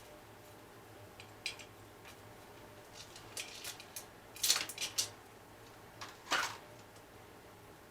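Light metallic clicks and clinks of hand tools and engine parts being handled, scattered and irregular, with the loudest cluster about four and a half seconds in and another about six seconds in.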